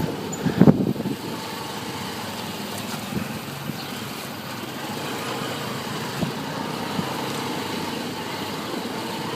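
Motorcycle engine running steadily while riding, mixed with road and wind noise, after a few brief louder bursts in the first second.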